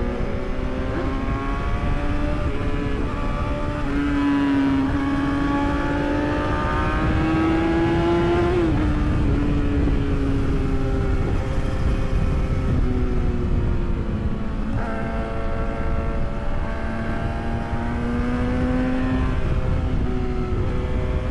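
Yamaha R6 sport bike's inline-four engine under way, with heavy wind rush over the microphone. The engine note climbs steadily for several seconds and drops sharply with an upshift about eight and a half seconds in, then climbs and shifts again near the end.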